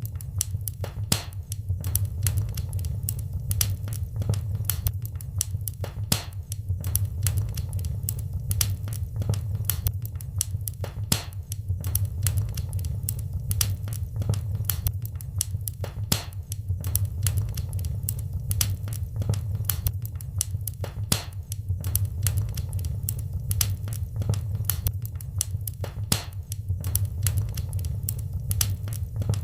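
Wood fire in a fireplace crackling: many sharp irregular pops and snaps over a steady low rumble of the burning fire.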